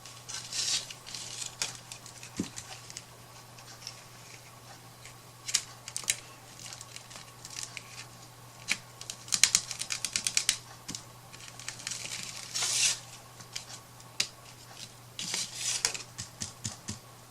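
Light clicks and taps of craft tools and small wooden pieces on a hard tabletop while ink dots are dabbed on, with a quick run of about ten light taps about halfway through and a few short scraping sounds. A faint steady hum runs underneath.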